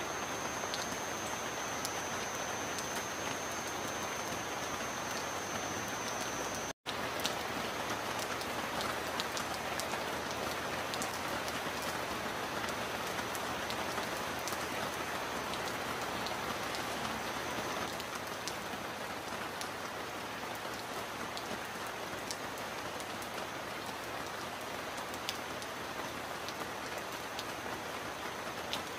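Steady rain falling, an even hiss with scattered drop ticks. The sound cuts out for an instant about seven seconds in.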